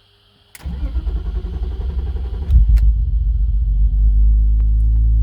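BMW E36 328's straight-six engine cranking on the starter for about two seconds, catching with a sudden rise in revs, then settling into a steady idle through its MagnaFlow muffler.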